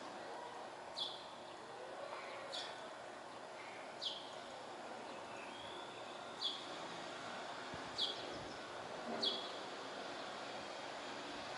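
A bird calling repeatedly: about six short, sharply falling high notes, one roughly every second and a half, over a faint steady outdoor background noise.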